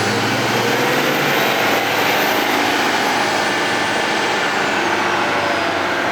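Turbocharged diesel pickup engine running hard under load on a chassis dyno pull, with a high turbo whistle that climbs over the first couple of seconds and then falls away.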